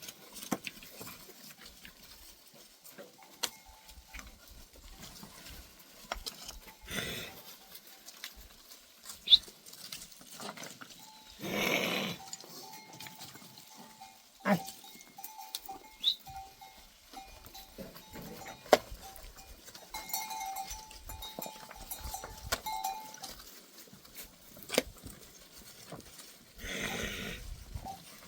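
A flock of goats and sheep bleating now and then, with faint clinking of animal bells and scattered sharp clicks and knocks.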